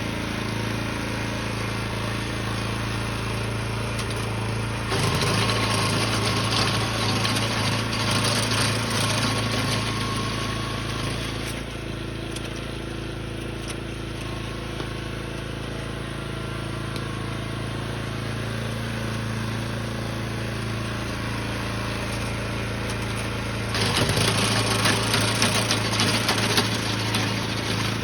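Small engine of a snow-clearing machine running steadily, with two louder, rougher stretches of noise: one about five seconds in that lasts several seconds, and another near the end.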